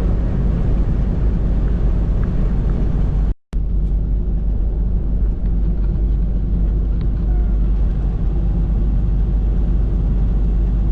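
Steady low drone of a semi truck's engine and road noise inside the cab while driving at highway speed. It cuts out for a moment about three and a half seconds in, then carries on unchanged.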